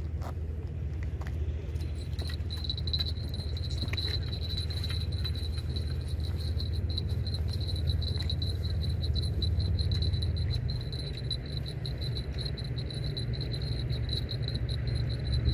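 A high-pitched insect trill sets in about two seconds in and carries on steadily, pulsing rapidly, over a constant low rumble.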